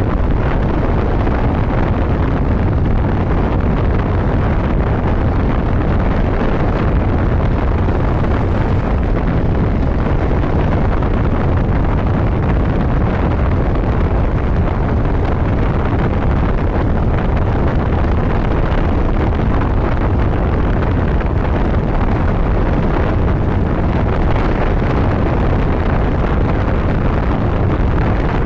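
Steady wind rush and buffeting on the microphone of a motorcycle ridden at highway speed, with engine and road noise beneath.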